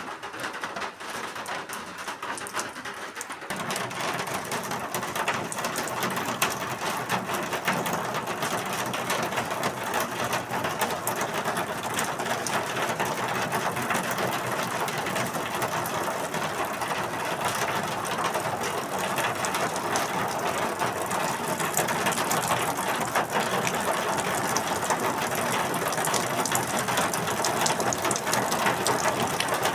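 Rain falling steadily, a dense patter of drops on a hard surface that gets louder and fuller about three and a half seconds in.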